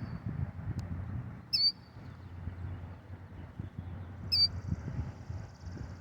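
A bird giving short, sharp, high calls three times, the last one running into a rapid trill, from a nesting pair disturbed at their eggs. A low rumble runs underneath.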